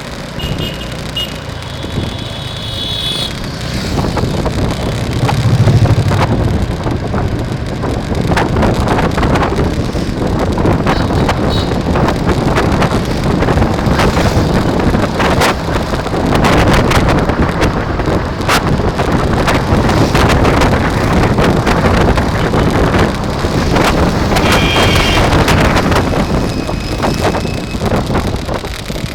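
Wind rushing over the microphone of a moving bike, with frequent clicks and knocks throughout. Brief high-pitched tones come twice, near the start and about 25 seconds in.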